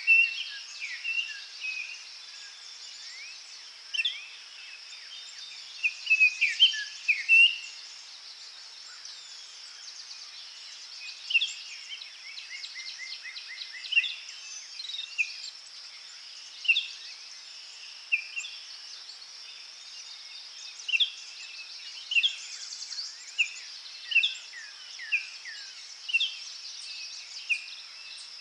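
Forest birds chirping and singing in short calls every second or two, with a busier run of song near the start and again about six seconds in, over a steady high-pitched insect drone.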